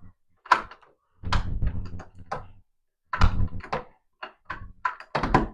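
Bursts of knocks, clacks and clattering in a small room, coming in several clusters with short quiet gaps between them.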